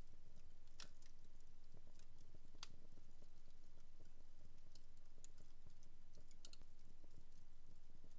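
Wood fire crackling in a fireplace: scattered sharp pops and ticks at uneven intervals, the strongest about a second in, near the third second and near the seventh.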